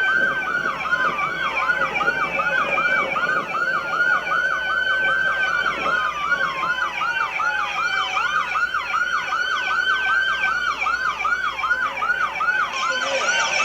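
Several police car sirens sounding together: one on a fast yelp, about three cycles a second, with another wailing in slower falling sweeps over it.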